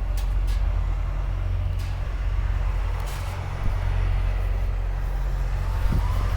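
A motor vehicle's engine idling, a steady low hum.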